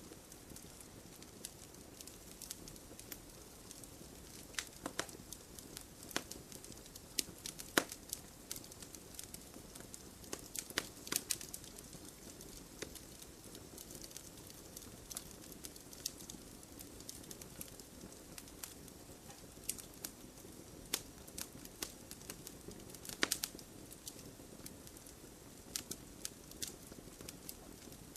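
Campfire burning: irregular sharp crackles and pops over a low steady rush of flame, with a cluster of louder pops about eleven seconds in and another near twenty-three seconds.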